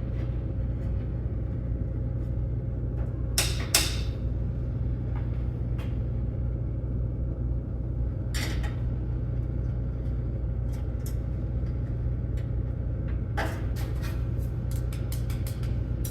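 Steady low background hum, with a few light clicks and taps from small brass tips being handled and screwed into the corners of a CNC plasma cutter's frame, coming in a quick run near the end.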